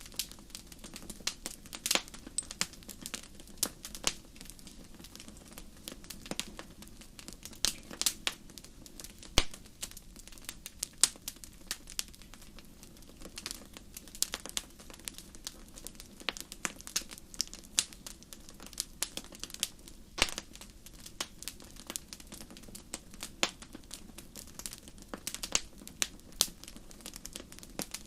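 Wood fire in a fireplace crackling: frequent irregular sharp pops and snaps over a low steady hiss of burning.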